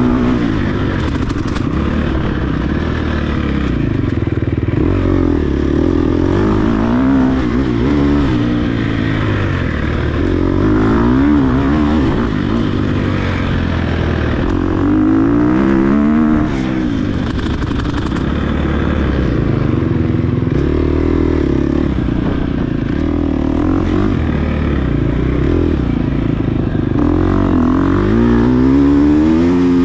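Off-road dirt bike engine revving hard, its pitch rising and falling again and again every few seconds as the throttle is opened and shut and the gears change on a race course.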